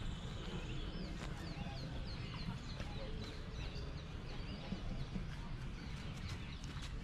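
Many small birds chirping in quick, short rising-and-falling notes, thickest through the middle, over a steady low rumble of wind on the microphone.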